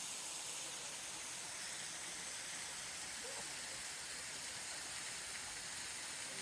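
Steady, even hiss of water running and falling at a partly melted frozen waterfall.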